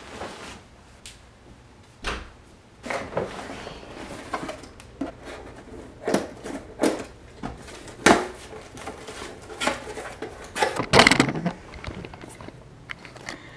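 A knife slitting open a cardboard shipping box: a string of irregular scrapes, rips and knocks of blade, tape and cardboard, with the loudest tearing about three-quarters of the way through.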